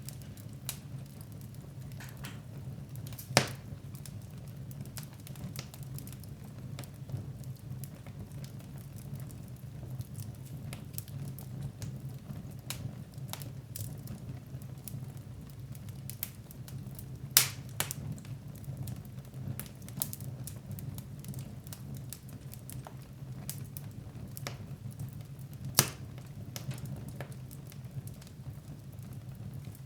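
Fire in a fireplace crackling steadily with many small snaps, over a low steady rumble. Three louder pops stand out: a few seconds in, about halfway, and near the end.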